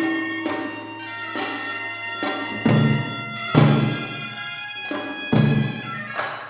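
Korean traditional ensemble music: a double-reed wind instrument holds long, reedy, sustained notes over separate, unevenly spaced drum strokes.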